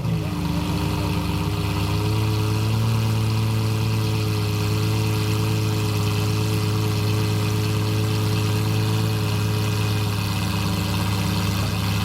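Lamborghini Murciélago LP670-4 SuperVeloce's V12 through a loud aftermarket Reiter exhaust, idling steadily with a low, even tone just after a rev has died away.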